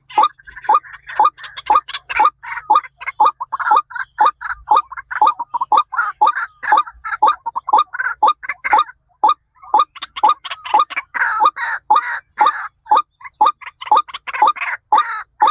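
A bird calling over and over in short, sharp notes, about three a second in an uneven rhythm.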